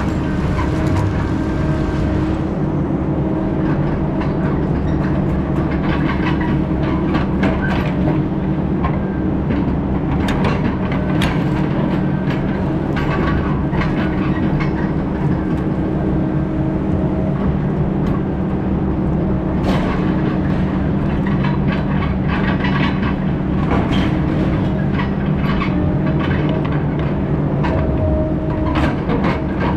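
Heavy diesel logging machine running steadily under load, with frequent sharp metallic clanks and knocks over the engine drone.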